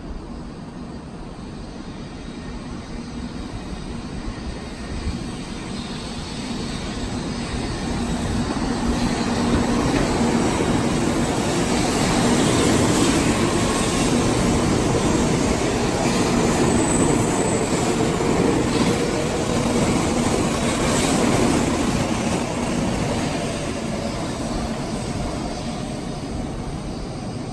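Shinkansen N700 series 7000-subseries train pulling out of the station. Its running noise builds over about ten seconds as the cars pass, then fades as the train draws away.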